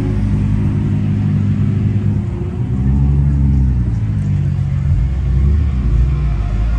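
Car engine running loudly, its pitch rising and falling several times.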